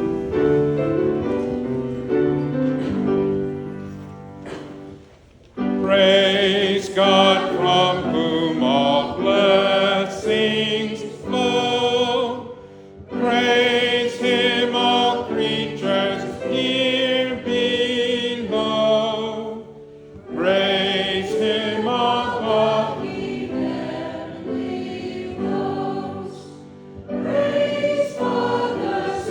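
Choir singing a hymn with accompaniment. The first five seconds hold sustained introductory chords, and voices with vibrato come in about six seconds in, singing in phrases with short breaks between them.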